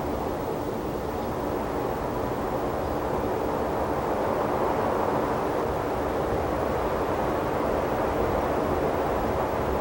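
Distant aircraft passing overhead: a steady rushing drone that swells a little about four seconds in.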